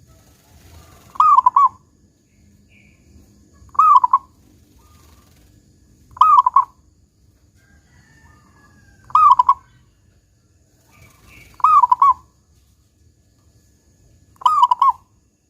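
Zebra dove (perkutut) singing its cooing song, with a loud 'kung' note, six times at even intervals of about two and a half seconds. Each phrase is a quick run of arched cooing notes lasting about half a second.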